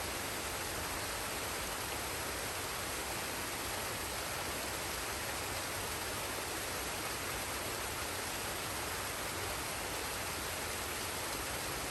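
Waterfall and stream water flowing steadily, an even, unbroken hiss of water with no single splashes standing out.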